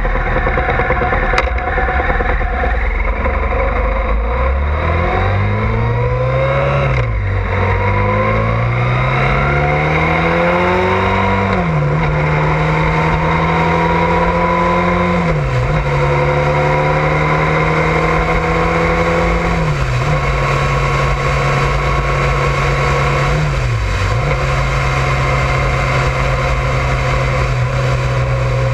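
Honda ST1100 Pan European's V4 engine pulling away and accelerating, its note climbing and dropping back at each gear change, then holding a steady cruising drone broken by a few brief dips. Wind and road noise run underneath.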